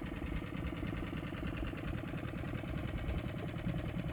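Small outboard motor on an inflatable dinghy running steadily under way, a fast, even buzz.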